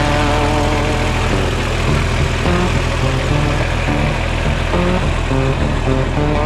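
Diesel tractor engine running steadily, with music playing over it.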